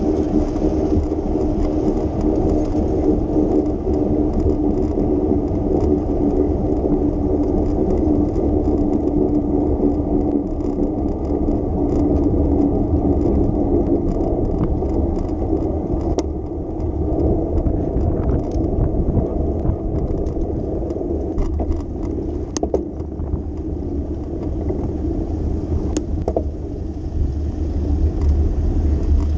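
Street noise heard from a moving bicycle: a steady rumble of tyres, wind and traffic, with a hum that fades about halfway through. A few sharp clicks come in the second half.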